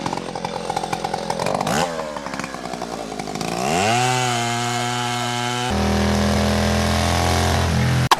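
Small engine sound, buzzing and revving up twice before settling into a steady run, then cutting abruptly to a different, steadier engine drone near the end.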